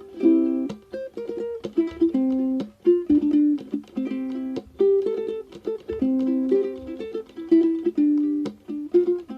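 Background music: a light melody of plucked string notes, several a second, with chords.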